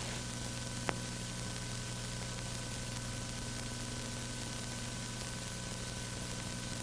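Steady hiss with a low electrical hum, the background noise of an old film soundtrack, with one faint click about a second in.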